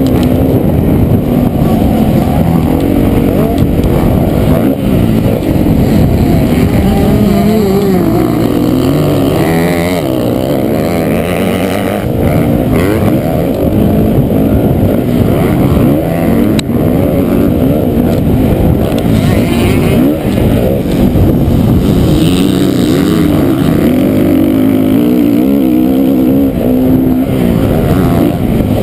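A 450-class motocross bike's engine, heard close up from a camera mounted on the bike, running hard with the revs rising and falling continuously as it is ridden around a dirt track.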